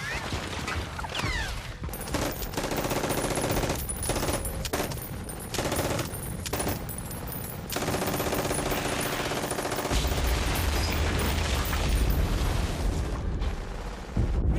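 War-film battle soundtrack: dense machine-gun and rifle fire, with a heavy low rumble from about ten seconds in.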